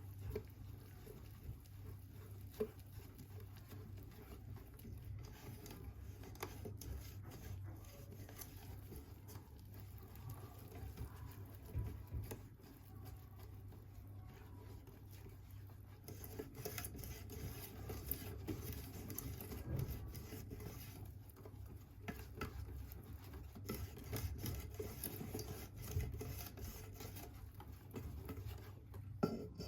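Quiet handling sounds: scattered light taps, clicks and rubbing over a steady low hum.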